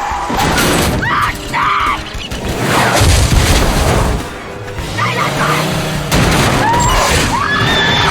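Film car-crash sound effects over a dramatic music score: a heavy boom about three seconds in, with crashing and shattering, and high wavering screeches on either side of it.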